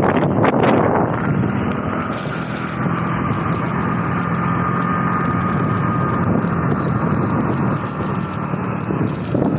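A motor vehicle's engine running steadily, with a crackly rattle over it.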